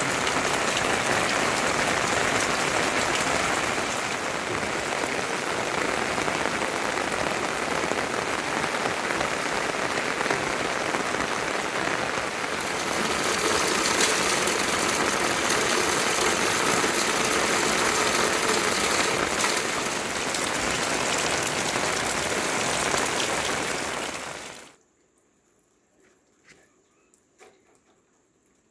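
Heavy rain falling in a steady, dense hiss. It cuts off abruptly near the end, leaving near silence with a few faint ticks.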